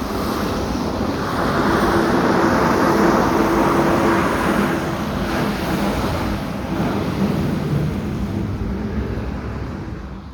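Strong wind rushing over the microphone in a snowstorm, a loud steady roar that cuts off abruptly at the end.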